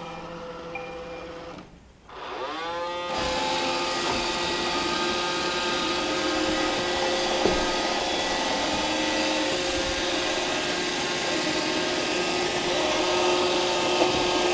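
An electric motor starts about two seconds in, its whine rising in pitch as it spins up, then runs steadily with a hum and a hiss of air.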